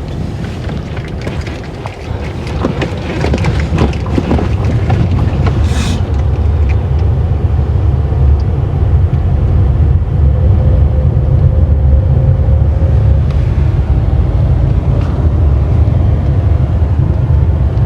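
Car driving on the road, a steady low road and engine rumble, with a few rattles and knocks in the first several seconds before it settles.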